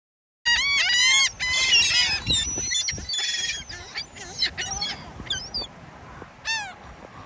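A flock of birds calling, with many short arched calls overlapping densely for the first few seconds and then thinning to scattered calls over a low background rush.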